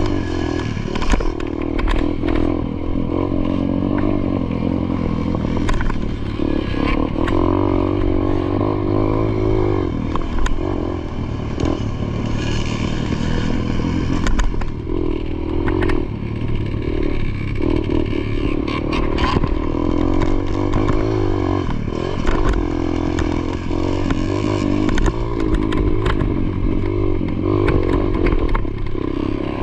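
Dirt bike engine revving up and down as it is ridden hard, its pitch repeatedly rising and falling, with clattering knocks throughout.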